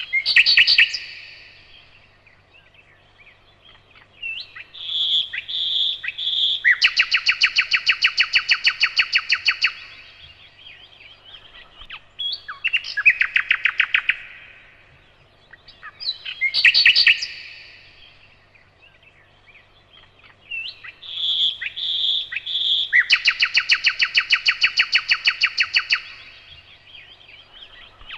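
Nightingale singing: phrases of clear whistled notes and long, rapid trills of about ten notes a second, with short pauses between phrases. The same sequence of phrases comes around twice.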